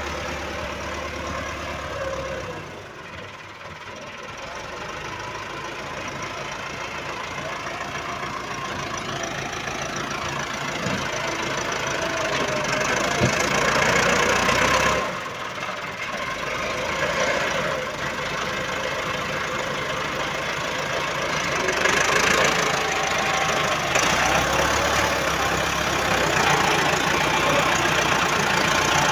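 Tractor diesel engine running, growing gradually louder, with a brief drop in level about fifteen seconds in.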